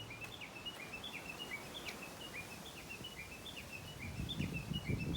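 A small bird calling over and over in short high chirps, about three or four a second, against faint outdoor background noise. Rustling noises begin near the end.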